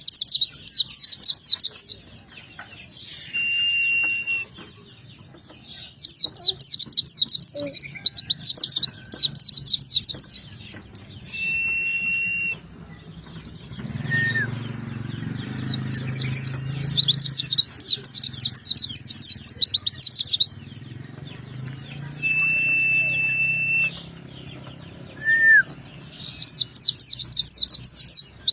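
A songbird singing: runs of fast, high chirping notes a few seconds long, alternating with a single long, steady whistled note.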